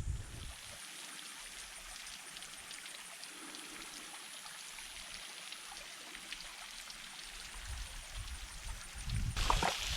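Waterfall trickling and splashing: a steady watery hiss with faint drips, getting louder about nine seconds in.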